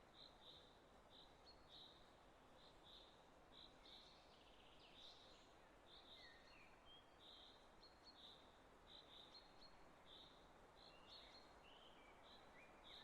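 Very faint birdsong: short high chirps repeating irregularly, with a few brief whistled notes sliding up or down, over a soft steady hiss.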